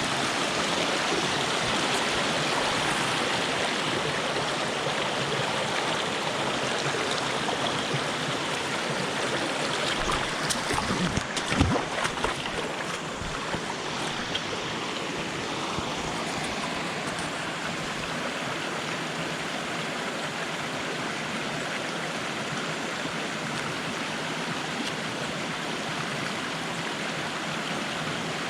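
Jungle stream rushing steadily over rocks, with a brief cluster of knocks about ten to twelve seconds in, after which the water sounds a little quieter.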